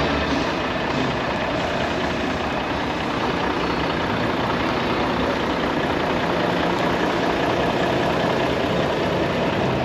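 A heavy truck's diesel engine idling steadily.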